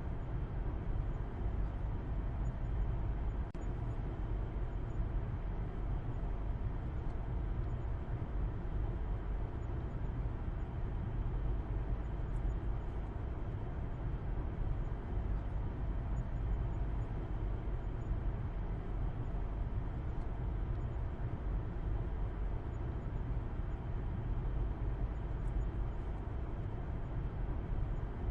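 Car driving at steady speed, heard from inside: a constant low engine and road rumble with tyre noise, unchanging throughout.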